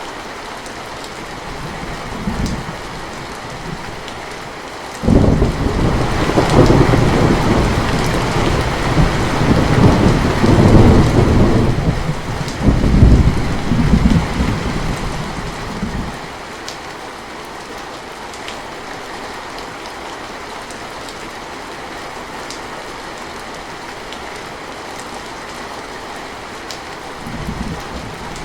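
Steady rain falling, with a sudden loud thunderclap about five seconds in that rolls and rumbles in waves for about ten seconds before fading back to the rain alone. A softer low rumble of thunder comes briefly near the start.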